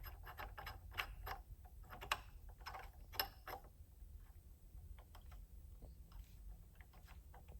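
Light, irregular metallic clicks and scrapes from a Heli-Coil thread insert being wound by hand into a Zenith carburetor's stripped fuel inlet with the insert tool. The clicks come thick and fast at first and thin out after a few seconds.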